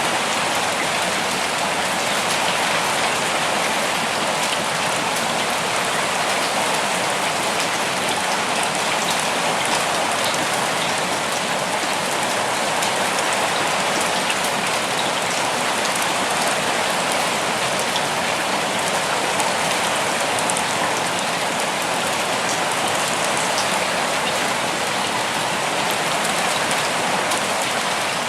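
Steady rain falling, a dense even patter with scattered individual drops ticking.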